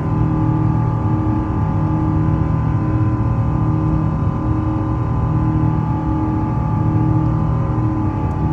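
Airbus A350's Rolls-Royce Trent XWB jet engines running steadily: a deep rumble with several steady whining tones, and a lower tone that pulses about one and a half times a second.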